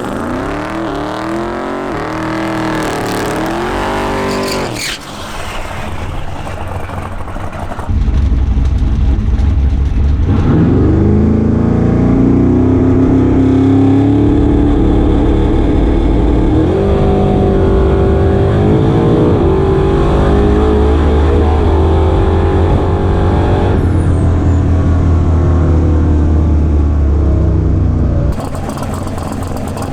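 Twin-turbo big-block Chevy V8 of a 1956 Chevy drag car: a few short revs, then a full-throttle launch with the engine pitch climbing and stepping down at each gear change, cut off suddenly near the end.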